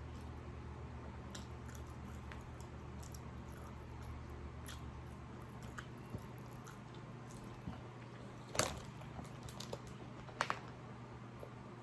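Close-miked eating sounds: chewing with scattered small clicks and smacks, two sharper clicks near the end, over a steady low hum.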